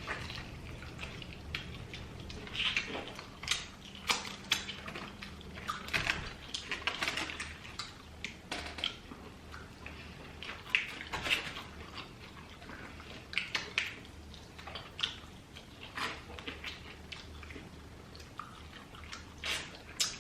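Chicken wings being eaten close to the microphone: wet smacking and chewing, with an irregular scatter of short clicks and squelches from the wings being handled.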